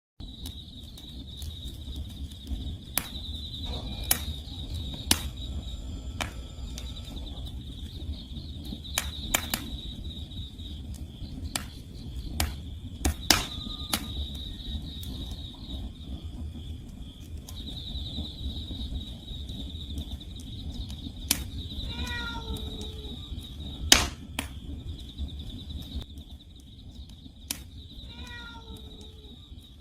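Firewood burning in a Korean agungi wood-fired furnace, crackling and popping with sharp irregular snaps over a low steady rumble, one pop much louder about two-thirds through. Crickets chirp in a steady high trill throughout, and a cat meows twice near the end, each meow falling in pitch.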